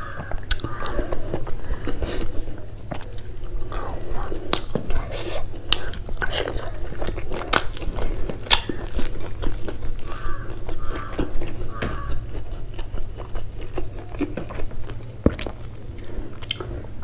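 Close-miked chewing of mouthfuls of rice and curry eaten by hand: wet lip smacks, mouth clicks and the occasional crunch, going on steadily.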